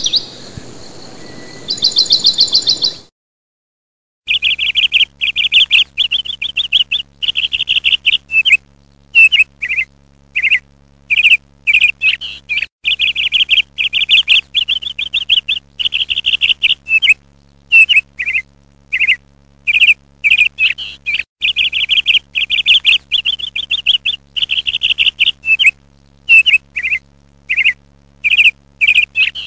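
Small bird chirping and twittering in quick trills, over and over, with a faint steady low hum underneath.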